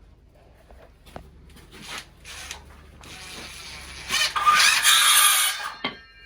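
Power drill driving a screw into a wooden board; the drill winds up and is loudest for the last couple of seconds before it stops.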